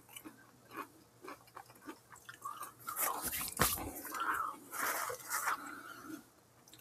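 A person chewing a bite of fast-food onion ring, with irregular small mouth clicks and crunches close to a clip-on microphone. A single louder thump comes about three and a half seconds in.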